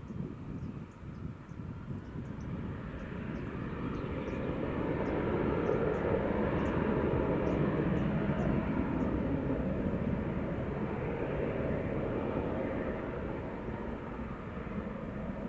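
Jet airliner's engines passing: a broad roar that builds over several seconds, is loudest in the middle and slowly fades away.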